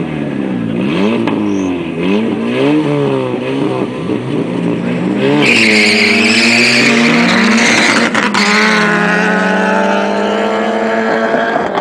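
Turbocharged car engine revved up and down several times in quick blips. About five seconds in, the tyres squeal loudly for a couple of seconds while the engine is held high, then the engine pulls steadily with its pitch slowly rising.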